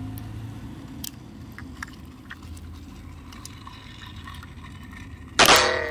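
Small plastic clicks as AA batteries are fitted into the battery compartment of a toy train engine, then one loud, sudden clack with a brief ring near the end.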